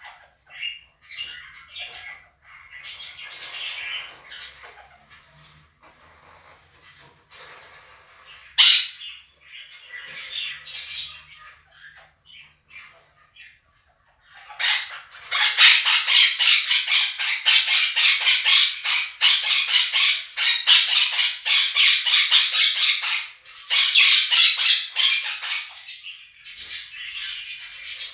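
Two monk parakeets (Quaker parrots) screeching and squawking over a budgerigar flock's chirping chatter. The first half is softer chatter broken by one sharp loud call. From about 15 seconds in, a long run of loud, rapid, repeated screeches lasts some ten seconds before dropping back to softer chatter.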